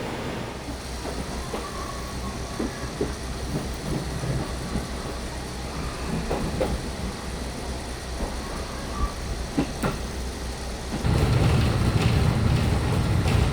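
Local train heard from inside the carriage: steady low rumble with scattered small clicks, growing clearly louder about eleven seconds in.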